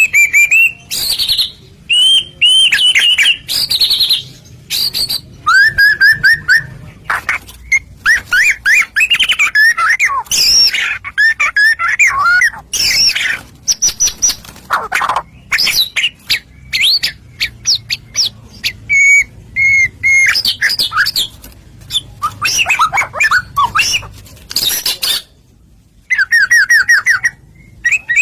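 White-rumped shama (murai batu) in full song: a loud, fast string of varied phrases, clear whistles mixed with rapid chattering notes and quick sweeping trills, broken by short pauses and one longer pause near the end.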